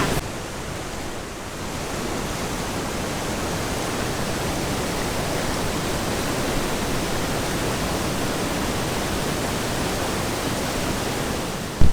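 Steady rushing of a large waterfall, a constant even noise that grows a little louder about two seconds in.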